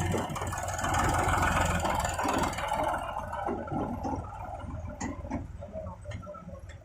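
Diesel engine of a heavy farm machine (backhoe loader or tractor) running with a steady low hum, which fades away over the first two to three seconds. A few sharp clicks or knocks follow later on.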